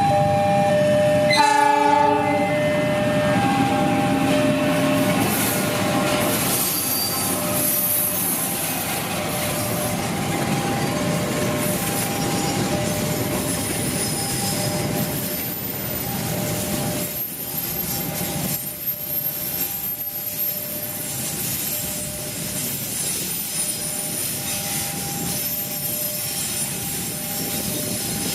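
A train going by: a short horn blast about a second and a half in, then the steady noise of the cars passing, slowly fading, with thin high wheel squeals. Two steady tones that come and go repeat throughout.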